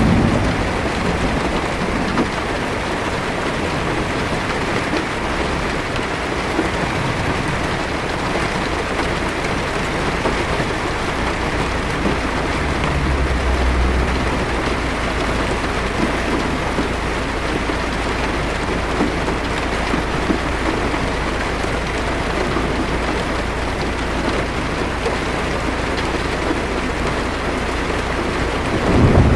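Heavy rain drumming steadily on a car's roof and windshield, heard from inside the cabin. A faint low rumble of distant thunder swells briefly near the middle.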